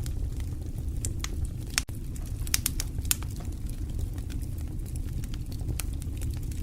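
Wood fire burning in a fireplace: a steady low rumble of the flames with irregular sharp crackles and pops from the burning logs, a cluster of them about halfway through.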